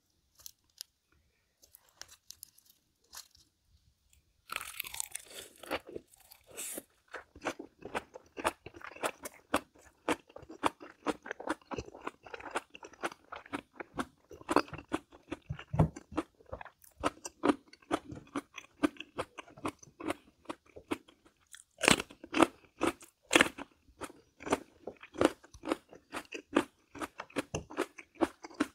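Close-miked chewing of crunchy food: a steady run of sharp crunches and wet chewing, beginning in earnest about four seconds in, with the loudest crunches near the end.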